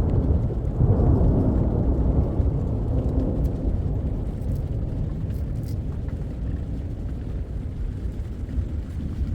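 Rolling thunder: a deep, low rumble that swells about a second in, then slowly dies away.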